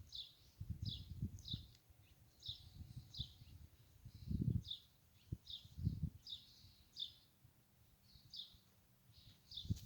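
Songbird chirping: short, high chirps repeated about twice a second, often in pairs. Low rumbles and thuds underneath, the loudest about halfway through.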